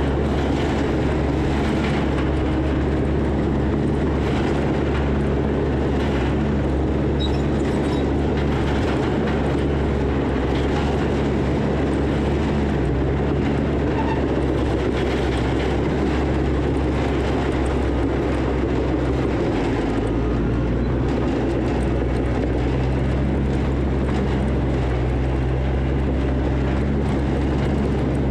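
Diesel engine of heavy earthmoving equipment running steadily under load, its engine note shifting about twenty seconds in.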